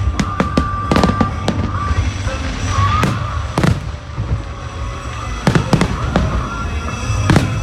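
Aerial fireworks bursting: a dense, irregular series of sharp bangs and crackles over a steady low rumble, with a few brief whistling tones.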